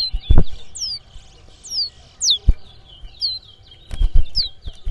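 Caged racing songbirds singing in a song-count contest: a string of quick, high whistled notes, each sliding downward, one every half second to a second. A few short dull knocks come in about a third of a second in and again around four seconds.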